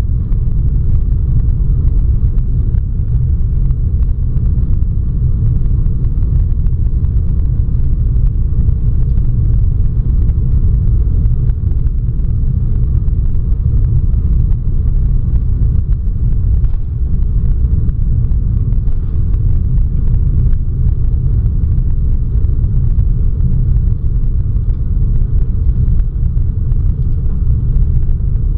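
Steady, loud low rumble of a Boeing 757-200 airliner in flight: engine and airflow noise heard inside the cabin.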